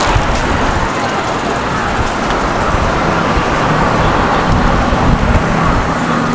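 Road traffic on a city street: the steady noise of cars and other vehicles running past, with a faint steady engine hum in the second half.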